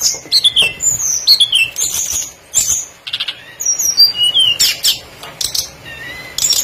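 Small songbird chirping: quick high whistled notes that slide downward, in short bursts, mixed with a few sharp clicks.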